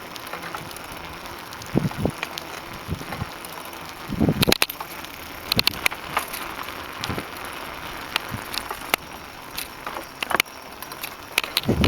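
Riding a bicycle: steady tyre and wind noise with irregular clicks and rattles, and a few heavy low thumps on the microphone.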